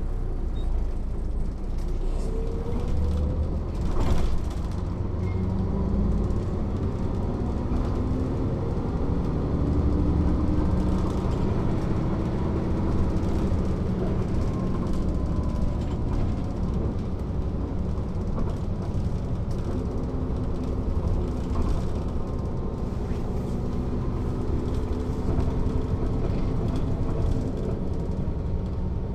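Mercedes-Benz O 407 city bus's six-cylinder diesel engine running under way, its pitch rising and shifting with speed and gears. There is a single sharp knock about four seconds in.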